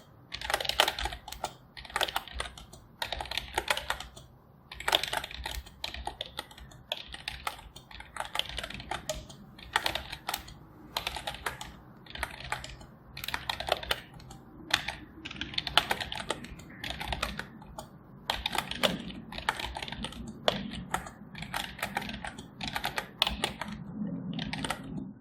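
Computer keyboard being typed on in steady runs of rapid key clicks, broken by short pauses.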